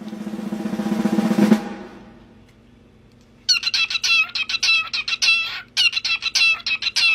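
A short drum roll, growing louder and stopping about a second and a half in. Then, from halfway through, a parrot gives a rapid string of short, high-pitched calls in two runs with a brief break between them.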